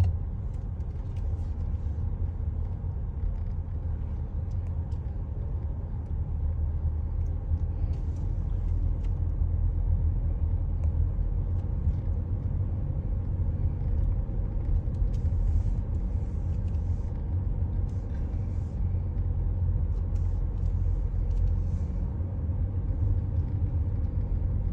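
Steady low rumble of a car moving, heard from inside the cabin.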